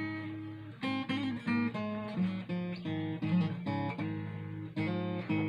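Ovation Applause AE27 steel-string acoustic-electric guitar played unplugged and tuned below standard pitch: chords struck about once or twice a second and left to ring, with single notes picked between them.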